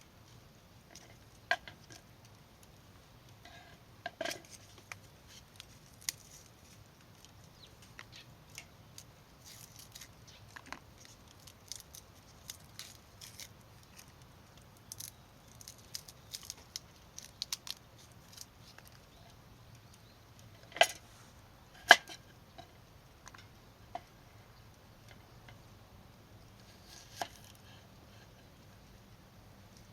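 Scattered light clicks and taps, with two sharper knocks close together about two-thirds of the way through.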